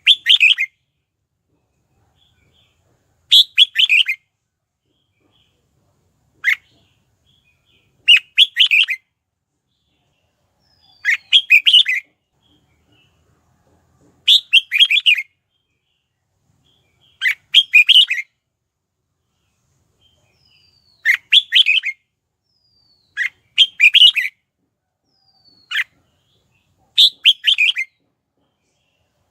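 Red-whiskered bulbul singing short, bright warbled phrases about every three seconds, with a couple of single clipped notes between them. This is the loud song used as a decoy to call in wild bulbuls.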